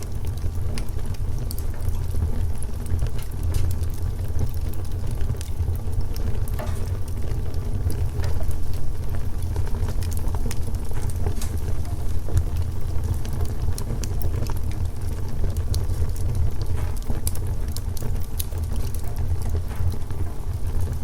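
Wood fire burning in a fireplace: scattered sharp crackles and pops from the burning wood over a steady low rumble.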